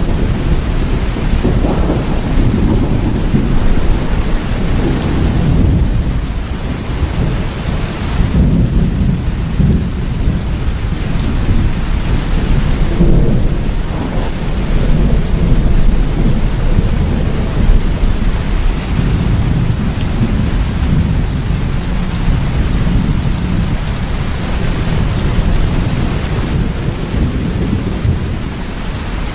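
Rain falling steadily over a deep, continuous rumble of rolling thunder that swells and eases without stopping.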